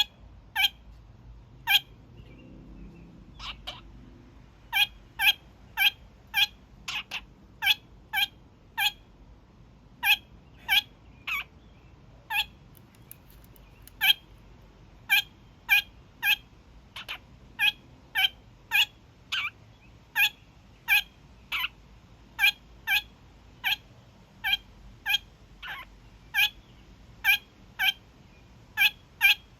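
Young male kakariki (New Zealand parakeet) honking: short, sharp calls repeated about two a second in long runs, broken by a couple of short pauses.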